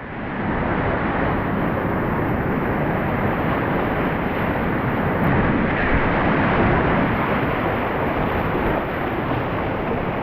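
Whitewater rushing steadily in a river's rapids, a loud even noise.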